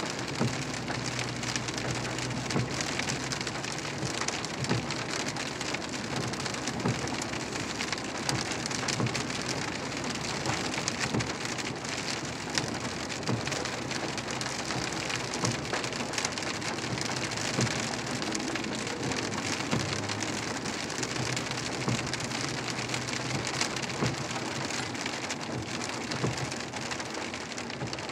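Heavy rain pattering steadily on a truck's windshield and roof, heard from inside the moving cab, with a low engine hum underneath.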